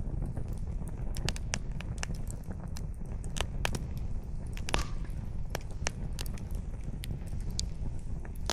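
Wood fire crackling, with irregular sharp pops and snaps of burning firewood over a steady low rumble.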